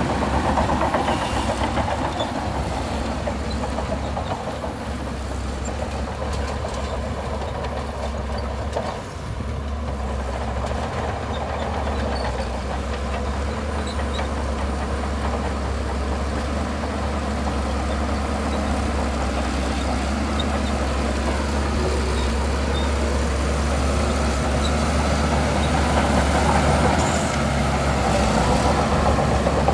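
Heavy diesel engine of a bulldozer running steadily under load, a deep constant drone with a brief easing about nine seconds in and a little louder near the end.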